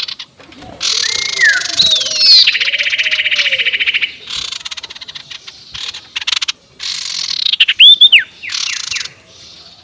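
Sirtu bird's ngekek call played as a lure: harsh hissing chatter and a fast, even cackling trill lasting about a second and a half, then a few sharp whistled notes rising and falling near the end.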